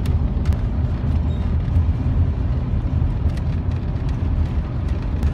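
A 1980s GMC Vandura van driving on a long back road, heard from inside the cab: a steady low engine and road rumble with a faint noise haze above it.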